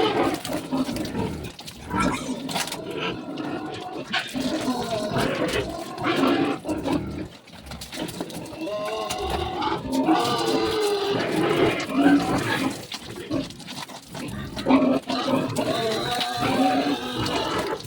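Pigs squealing and grunting continuously, several animals calling over one another.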